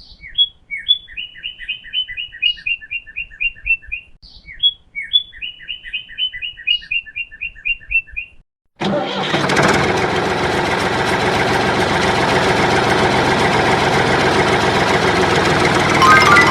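Bird chirping, the same phrase of rapid, high repeated notes heard twice, about four seconds each. After a short silence, an engine starts abruptly at about nine seconds in and keeps running steadily and loudly.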